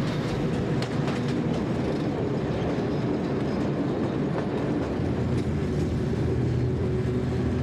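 Taieri Gorge Railway passenger train running along the track: a steady rumble from the carriages with occasional clicks of the wheels over the rail joints.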